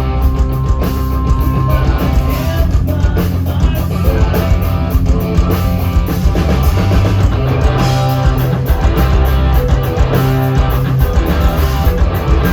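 Rock band playing live at full volume: distorted electric guitars, bass and a drum kit with steady cymbal hits.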